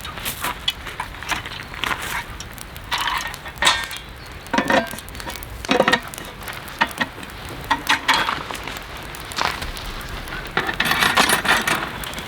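Cookware and utensils clinking and knocking at irregular intervals over a steady hiss, with a denser run of clatter near the end.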